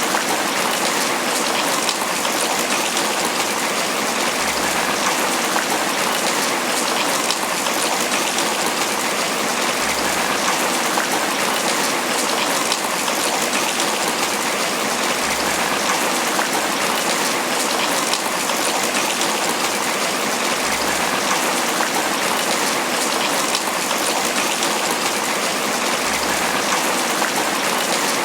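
Tropical rain falling steadily on banana leaves, a dense, even patter.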